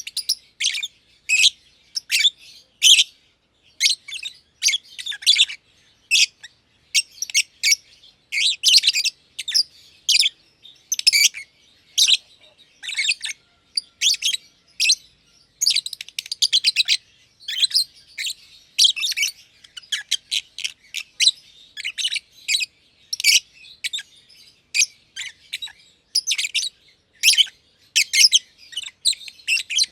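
Masked lovebirds (green and green pied personata) chirping in rapid runs of short, shrill, high chirps, broken by brief pauses.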